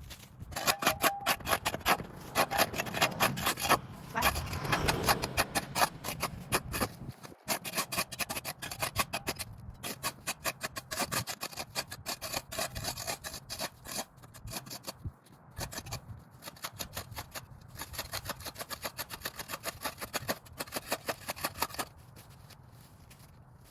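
Rapid, irregular scraping and rasping strokes, several a second, with brief pauses, quietening near the end.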